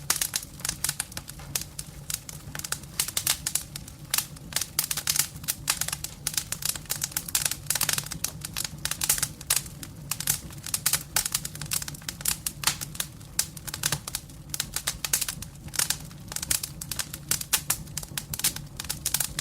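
Wood burning in a fireplace: dense, irregular crackling of the logs over a steady low background.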